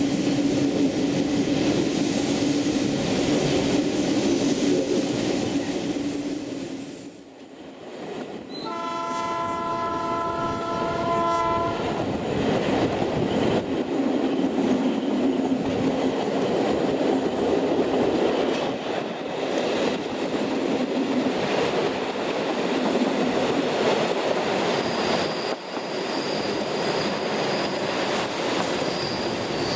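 Passenger coaches of a diesel-hauled train running along the track, a steady rolling rumble with wheel clatter on the rails. About nine seconds in, the GM 'Kennedy' diesel locomotive sounds its multi-tone horn for about three seconds. Near the end a thin high wheel squeal comes in.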